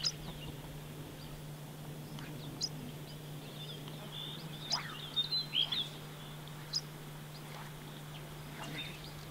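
Small birds chirping now and then: short, high, sweeping calls a second or more apart, clustering a little past the middle. Under them runs a steady low hum.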